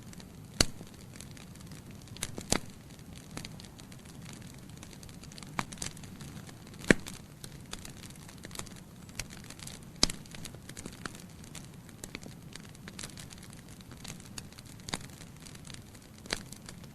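Burning logs crackling in a fireplace: irregular sharp pops and snaps over a soft steady hiss of the flames, with a few louder pops spread through.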